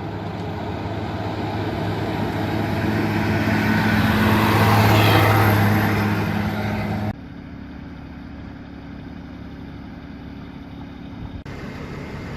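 A steady engine hum grows louder for several seconds, then cuts off abruptly about seven seconds in. A quieter, lower engine hum follows, with another abrupt change near the end.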